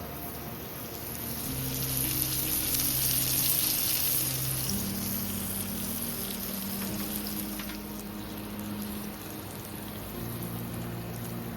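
Food sizzling as it fries in a pan: a steady hiss that runs on without a break.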